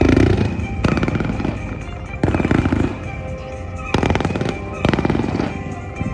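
Fireworks bursting, about five loud bangs each followed by crackling, over show music playing throughout.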